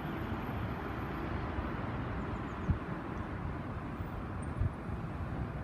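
Steady low rumble of distant road traffic, with two brief soft knocks about midway and near the end.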